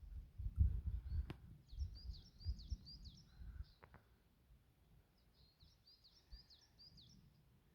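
Lesser spotted woodpecker calling: two runs of high, evenly repeated notes, about four a second, with a low rumble on the microphone through the first half.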